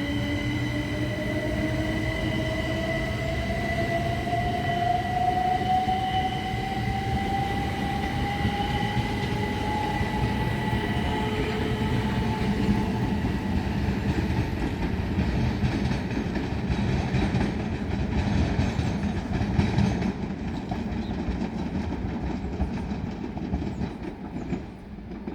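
Class 375 Electrostar electric multiple unit pulling away, its traction motor whine rising steadily in pitch over about ten seconds above the rumble of the wheels and carriages. The sound drops away near the end.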